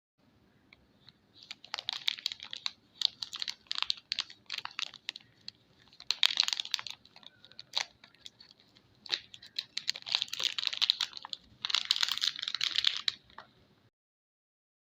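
Soap packaging being handled and unwrapped: irregular bursts of crinkling and crackling with sharp clicks in between. The sound cuts off abruptly near the end.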